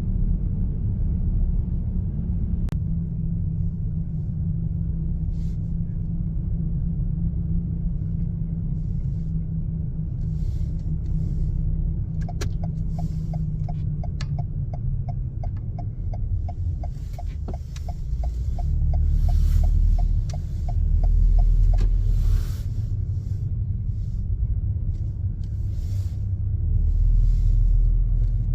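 Car driving, a steady low road rumble throughout that swells twice in the second half. Partway through, a turn-signal indicator ticks evenly, about three times a second, for around eight seconds.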